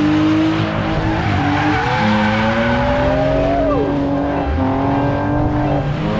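Drift cars' engines revving hard, pitch held high then climbing, with a sharp drop in revs about three and a half seconds in.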